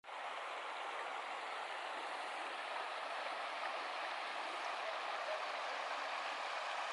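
A mountain river rushing steadily, a constant hiss of running water that fades in at the very start.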